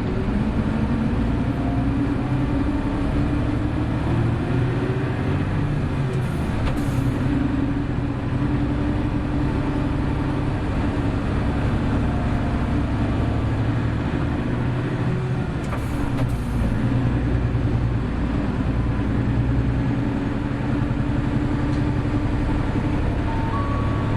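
A Hino Blue Ribbon City Hybrid city bus driving along, its diesel engine running steadily with its pitch slowly rising and falling as speed changes. Two short hisses of air come about six seconds in and again about sixteen seconds in.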